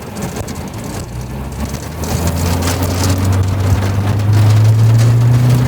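A car engine running with a low drone that grows louder and rises slightly in pitch as the vehicle speeds up, with rain hitting the car.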